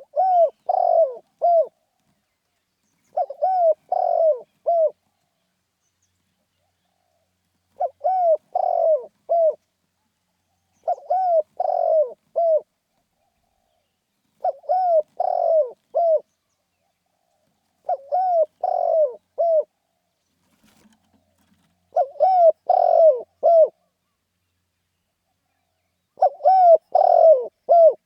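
Spotted dove cooing: eight repeated phrases of four or five short, throaty notes each, one phrase every three to four seconds. These are the lively territorial calls that Thai dove keepers rate.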